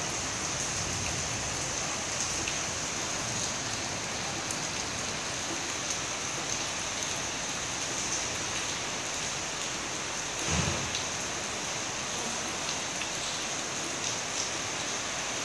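Steady rain falling during a night thunderstorm, an even hiss throughout. A brief low rumble comes about ten and a half seconds in.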